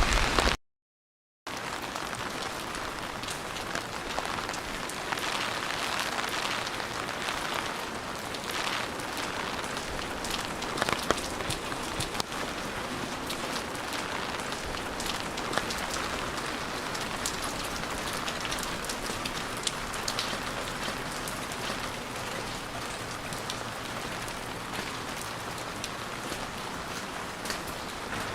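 Steady rain falling, an even hiss dotted with sharper drop ticks, after a second of dead silence near the start.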